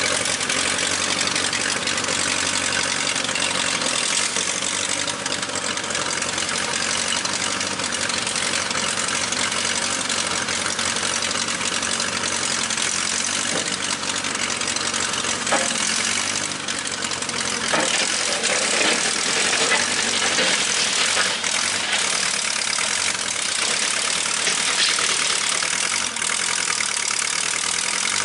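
1956 Case 310 tractor's engine running steadily, with a few knocks and clanks in the middle.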